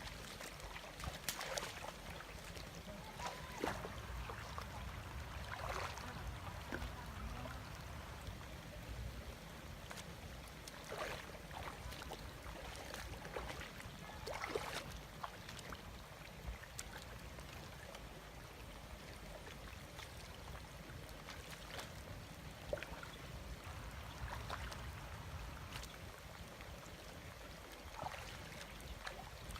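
Water splashing and trickling in irregular bursts, over a low steady rumble. The splashes are busiest in the first half, then thin out.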